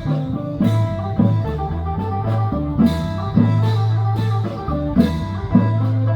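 Lively Thai band music: a plucked-string melody over a steady low bass drone, punctuated by regular drum hits.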